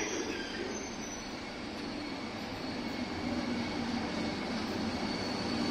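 Intercity passenger train rolling slowly into a terminus platform: a steady rumble of wheels on the rails, with a thin, high squeal coming in about halfway through as it brakes.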